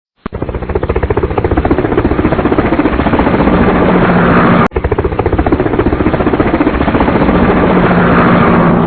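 A loud, rapid, rattling engine-like sound made of fast even pulses. It breaks off suddenly about halfway through and starts again at once.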